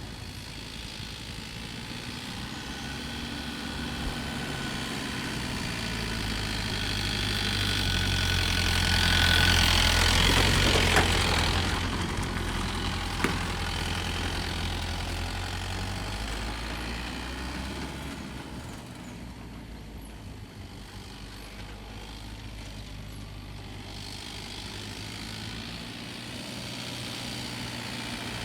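Mahindra Bolero pickup's diesel engine idling with a steady low hum. It grows louder to a peak about ten seconds in, then fades, with a single sharp click soon after the peak.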